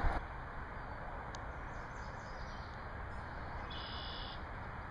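Faint, steady outdoor background hiss, with a brief high bird call a little before the end.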